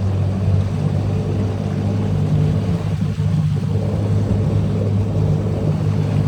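Boat motor running steadily at an even pitch, with water noise from the hull underneath.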